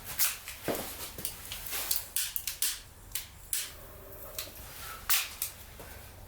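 Wood fire in a rocket stove crackling, with irregular sharp snaps and pops every half second or so.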